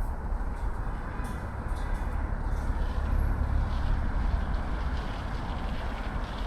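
Steady roar of heavy road traffic from a busy urban ring road.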